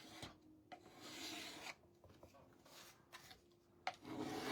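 Faint scraping of paint on a wooden cutting board in a few short rubbing strokes, distressing the waxed paint to chip it off for a worn look.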